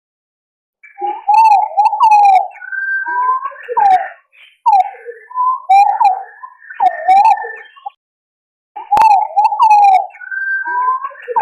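Green pigeons calling in a lure recording: several birds' mellow, wandering whistles overlap, with warbling glides and a longer held note. The calls start after about a second of silence, break off briefly near eight seconds with a click, and start again.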